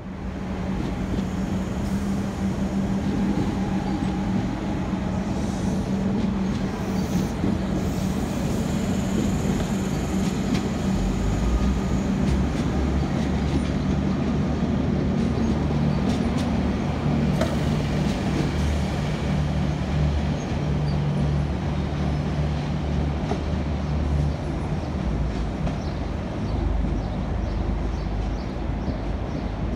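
Electric suburban trains running on the tracks below: a steady rumble of wheels on rail with a low electric hum that shifts lower about eleven seconds in.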